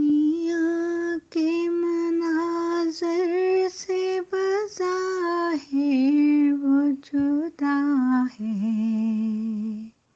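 A woman's solo voice singing a slow, ornamented melody to open an Urdu nazm, with no instruments: long held notes with wavering turns and short breaths between phrases, settling onto a lower held note near the end before stopping.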